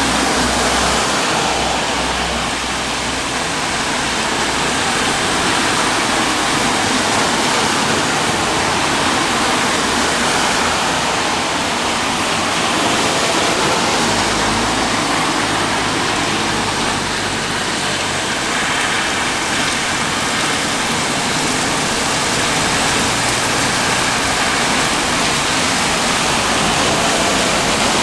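Steady rain falling hard: a loud, even hiss of water with no breaks.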